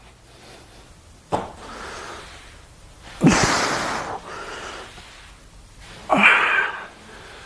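Three taekwondo kicks, each a sudden burst of breathy noise with a sharp start, a few seconds apart; the second is the loudest.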